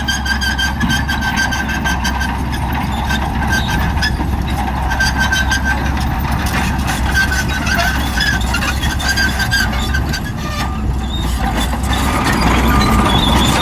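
Crawler bulldozer working: a steady low diesel engine rumble with high-pitched squeaking that comes and goes. The sound grows louder near the end.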